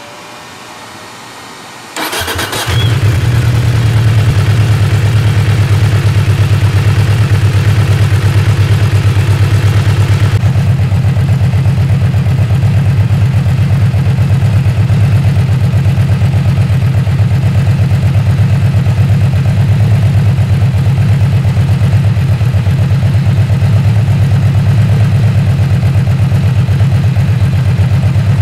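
Yamaha V-Max 1700's V4 engine, breathing through a Prunus aftermarket muffler, being started: after a quieter whir, the starter cranks about two seconds in, the engine catches within a second and settles into a steady, loud, deep-toned idle.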